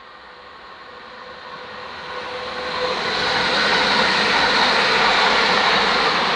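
A train approaching and passing through the station, growing steadily louder over about three seconds into a loud, steady rushing noise.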